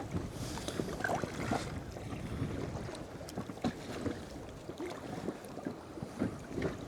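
Sea water lapping and splashing against the side of a small boat at anchor, with irregular small splashes and knocks, and wind on the microphone.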